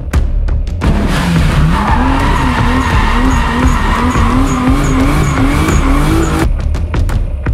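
Car drifting: the engine revs up and down in quick pulses, climbing in pitch, while the tyres squeal as they slide, starting about a second in and stopping shortly before the end. Music with a thumping beat plays at the start and end.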